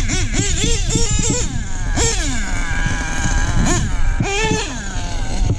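HPI Nitro Star .25 two-stroke nitro engine of an HPI Savage 25 RC monster truck, revving up and down in quick throttle bursts. About two seconds in it winds down in one long falling note, then holds a steady pitch for a moment before the bursts resume.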